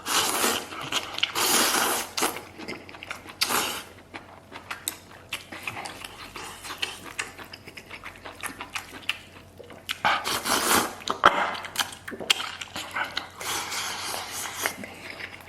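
A person slurping starch noodles (fen tiao) from spicy maocai in several long, noisy slurps, with wet chewing and smacking in between.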